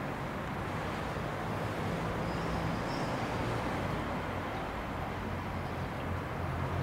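JR West 227 series electric multiple unit (four cars) approaching on the rails: a steady rumble of wheels and running gear with a low hum, getting a little louder near the end.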